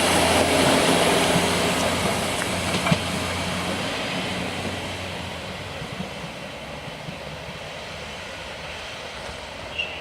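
Diesel regional train moving away along the track, its rumble fading steadily, with a low steady engine hum in the first few seconds. A single sharp click about three seconds in.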